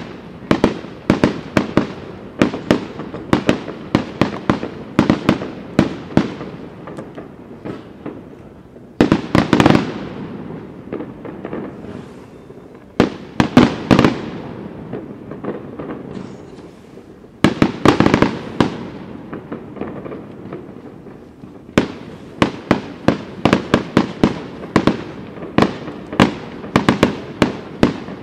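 Aerial fireworks display: shells bursting in quick runs of sharp bangs, each trailing off in echo. A fast string of reports for the first several seconds, then three separate loud clusters with short lulls between, then another fast run near the end.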